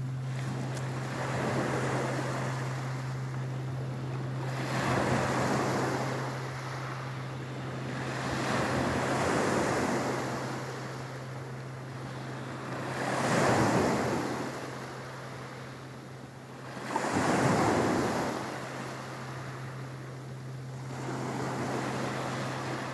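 Black Sea waves breaking on the shore, a surge of surf washing in and falling back about every four seconds, the two strongest near the latter part. A steady low hum runs underneath.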